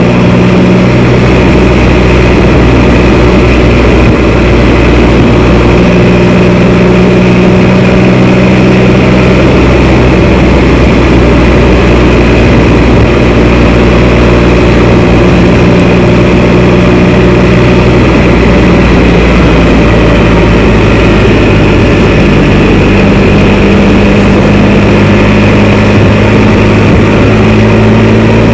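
Can-Am Spyder three-wheeler's engine running on the road, its pitch shifting up and down a few times with throttle and speed, under a loud steady rush of wind and road noise.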